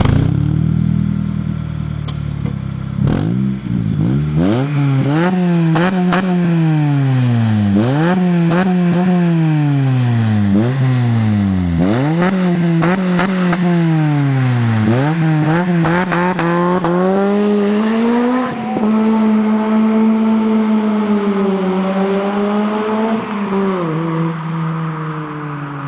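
Acura RSX Type S 2.0-litre four-cylinder through an aftermarket titanium cat-back exhaust and header, free-revved while standing. It idles at first, then gives a series of quick blips that climb sharply and fall back, then is held at raised revs for a few seconds before easing back toward idle near the end.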